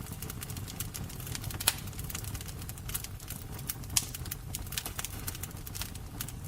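Fire burning with a steady low rumble and irregular sharp crackles and pops, two louder pops at about 1.7 s and 4 s.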